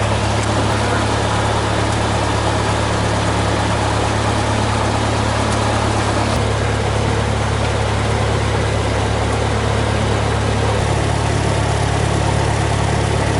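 Cessna 172's four-cylinder piston engine and propeller running steadily at low ground power, heard from inside the cabin as an even drone, with a slight change in its tone about eleven seconds in.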